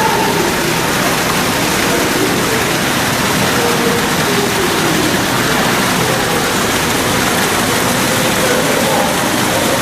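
A steady rushing noise with no breaks, with faint wavering voices beneath it.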